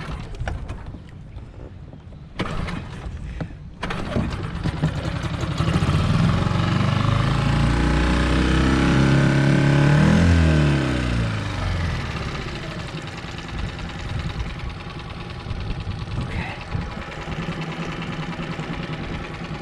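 Small outboard motor catching after a pull on the starter cord, revving up over several seconds and then dropping back to a steady idle.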